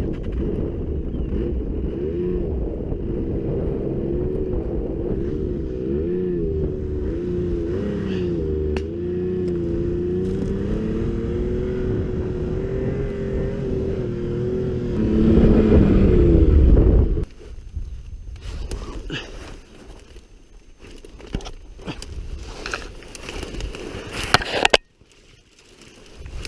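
Snowmobile engine running under way, its pitch wavering with the throttle, louder for the last couple of seconds before it cuts off suddenly. After it stops there are faint scattered noises and a sharp click near the end.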